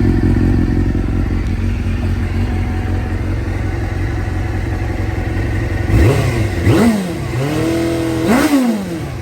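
Suzuki SRAD GSX-R600's inline-four engine idling steadily, then revved in three quick throttle blips near the end, the pitch rising and falling back each time.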